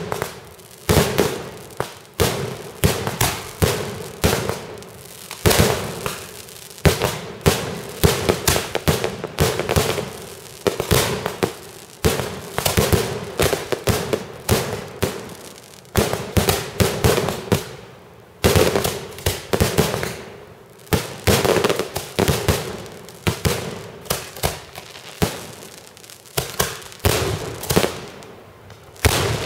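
Fireworks display: a continuous barrage of shell bursts, one or two sharp bangs a second, each trailing off in an echoing decay, with a brief lull a little past the middle.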